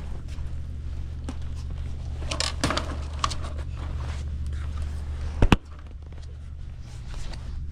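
A steady low hum with scattered clicks and light clatter, then a sharp double knock about five and a half seconds in.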